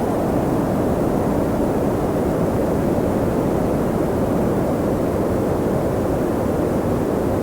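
Steady, deep rush of wind, even and unbroken, with no gusts, swells or other sounds.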